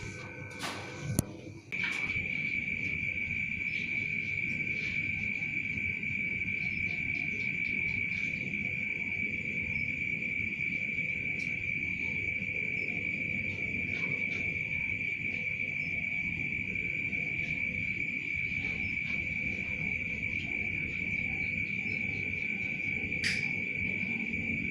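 An insect's continuous, high-pitched steady trill, like a cricket's. It breaks off briefly about a second in, among a few sharp clicks, and then carries on unbroken. A low background rumble runs beneath it, and there is a single sharp click near the end.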